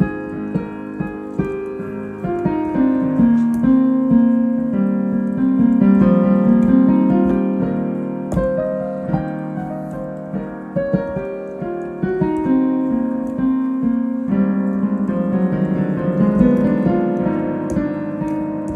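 Solo piano playing an improvised piece: a steady flow of chords and melodic lines in the middle register, the notes ringing on into one another.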